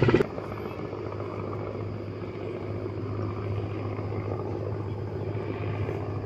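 A loud, fast-pulsing mechanical sound cuts off suddenly just after the start. A steady, quieter low hum from a motor or rotor carries on after it.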